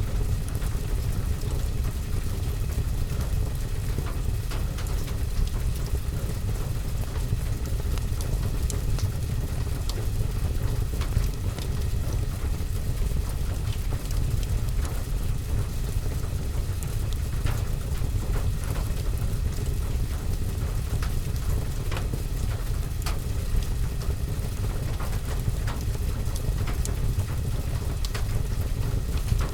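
Fireplace and rain ambience: steady rain with a deep, constant rumble, dotted with scattered sharp clicks and crackles.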